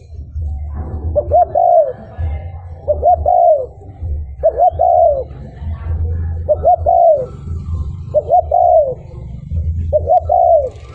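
Spotted dove (cu gáy) cooing its territorial song over and over, six phrases about every second and a half, each of a couple of short notes ending in a longer arched coo. A low rumble runs underneath.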